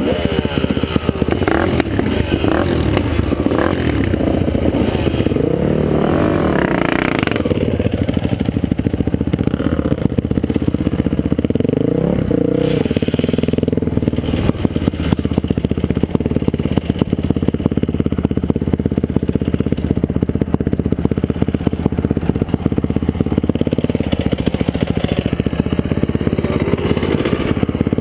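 Dirt bike engine running under way, the revs rising and falling with the throttle, with wind buffeting and rattling as the bike rides over rough ground.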